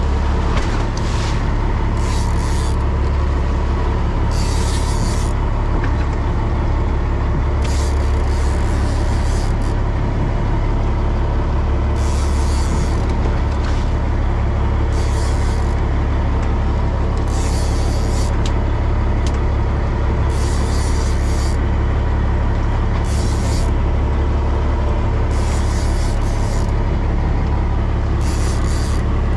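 Fishing boat's engine running with a steady low drone, with short hissing bursts about every two to three seconds.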